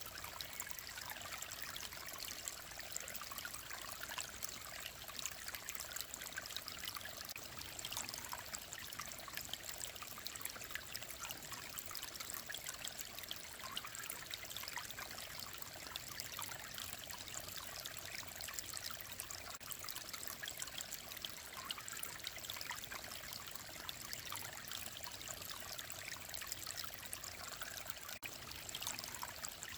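Clear mountain-valley stream flowing and trickling steadily, an even splashing babble of water.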